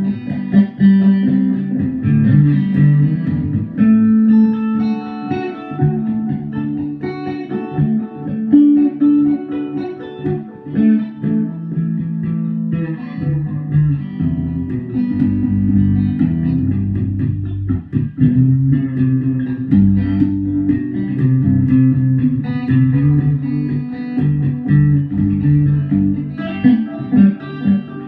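Guitar music: a run of plucked notes over lower bass notes, going on without a break and without singing.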